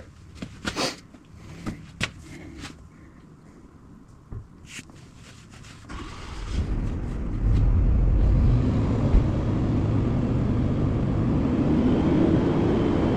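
A few light clicks, then about six seconds in a rushing rumble swells up and holds steady: the well pump started for a test run, pushing water through the new line toward the open boiler drain.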